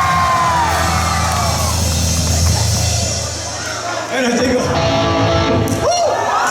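Live rock band of electric guitar, bass, drums and vocals playing loudly through a PA, opening on a long held high note over a steady bass line. The sound dips briefly about three to four seconds in, then the full band comes back in.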